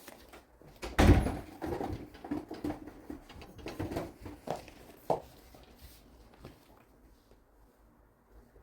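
A thump about a second in, followed by several smaller knocks and rustles of things being handled, settling to a quiet room after about five seconds.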